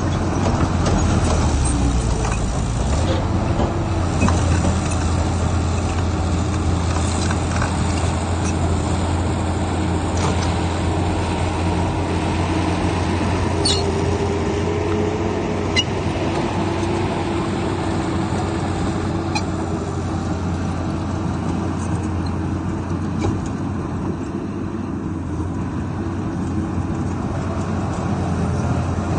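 Heavy diesel earthmoving machinery running steadily with a deep, constant drone and a few short sharp clanks about halfway through.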